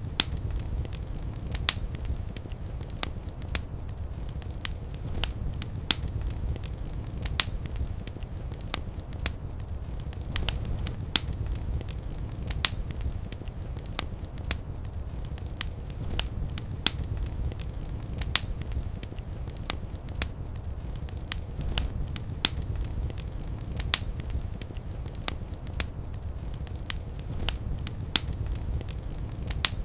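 Fire in a fireplace crackling, with sharp irregular pops several times a second over a low steady rumble.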